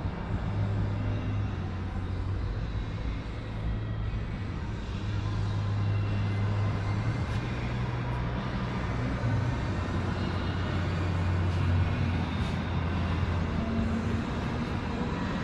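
A vehicle engine running with a steady low hum, its pitch shifting slightly now and then.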